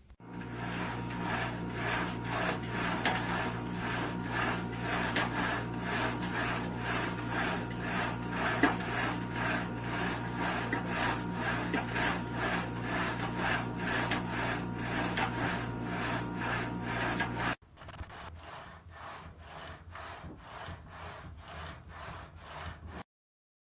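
RELIFE vertical climber exercise machine in use: its carriages slide along the metal guide rails in a steady rhythm of rubbing strokes, over a steady low hum. The sound drops to a lower level after a cut near the end.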